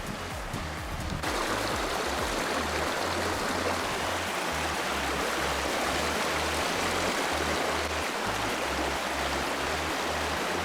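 A steady rush of water-like noise that starts suddenly about a second in, over background music with a slow, repeating bass line.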